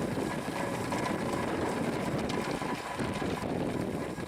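1925 Fowler BB1 steam ploughing engine working under load, a steady mechanical running noise as its winding drum reels in the steel cable.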